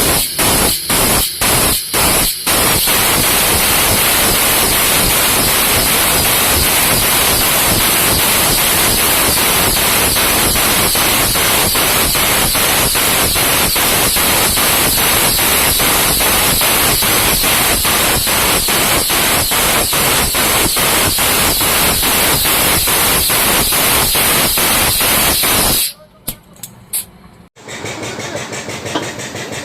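Loud, steady machine noise with an even pulse of a few beats a second, most likely a truck engine running hard close to the microphone. It cuts off suddenly near the end, and after a short gap a quieter engine starts idling.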